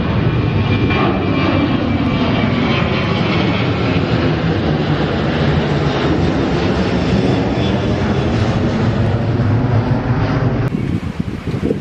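Airliner's engines, loud and steady, as the plane passes close by, with a slow sweeping, phasing quality to the roar. Near the end the roar breaks into uneven, gusty noise.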